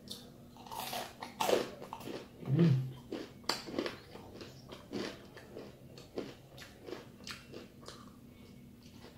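Close-up crunching and chewing of crispy fried chicken skin, sharp irregular crunches spread through, with a short low hum about two and a half seconds in.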